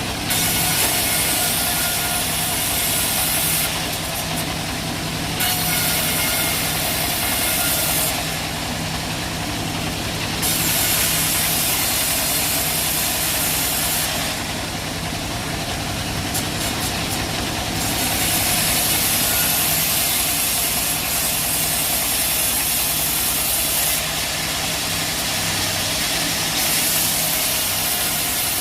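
Bandsaw sawmill running steadily, with a high hiss that comes and goes in stretches of a few seconds as the blade works through mahogany.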